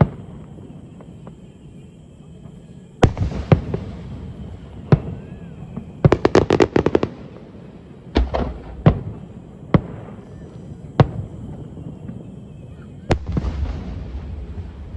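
Aerial fireworks bursting: separate sharp bangs, a rapid string of about a dozen pops around six seconds in, and a crackling hiss after a burst near the end.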